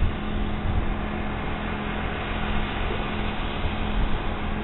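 Steady drone of a light propeller aircraft's engine, with wind rumbling on the microphone.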